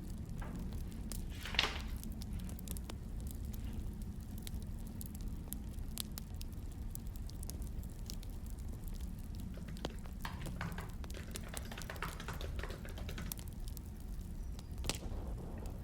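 Wood fire crackling, with irregular pops and snaps and brief hisses over a steady low rumble.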